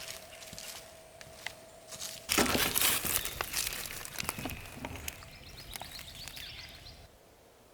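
Crinkling, rustling noise that starts suddenly and loud about two seconds in, then goes on as lighter crackling and dies away near the end.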